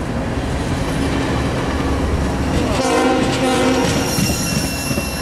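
A short BNSF train's covered hopper and stainless-steel passenger car rolling past close by, a steady rumble of steel wheels on the rails. Near the end, a thin high wheel squeal sets in.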